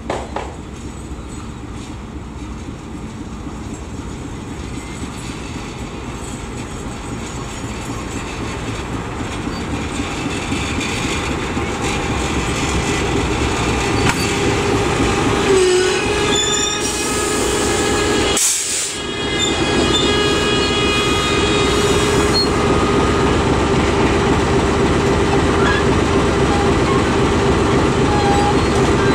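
Passenger train hauled by a GE CC201 diesel-electric locomotive approaching and passing close by: the locomotive's engine running and steel wheels rolling on the rails, growing steadily louder as it nears. Brief high-pitched tones about halfway through.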